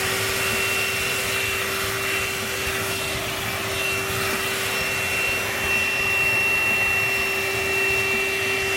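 Ainope 13.5-volt cordless handheld vacuum running steadily at full speed: an even rush of air with a steady high-pitched motor whine.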